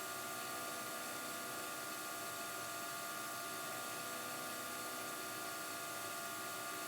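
A steady, even hiss with several faint, unchanging hum tones, with no knocks or tool strokes.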